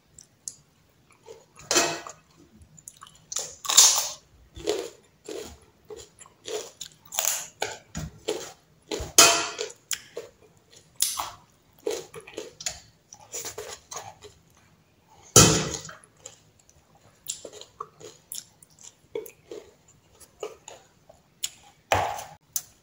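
A person chewing mouthfuls of rice and side dishes close to the microphone, with irregular chewing noises and loud crunchy bites every few seconds.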